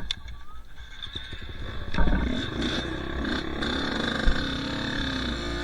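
Two-stroke dirt bike engine, low at first, then opening up sharply about two seconds in and running on at a steady, higher pitch.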